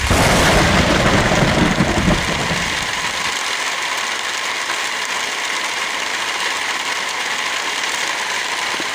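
Steady heavy rain, with a deep rumble on top of it for the first two seconds or so that dies away.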